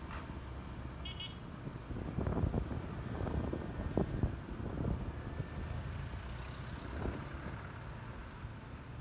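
Road and traffic noise from riding a Honda ADV 150 scooter, with a short high-pitched horn toot about a second in. Louder rushing noise sets in from about two to five seconds.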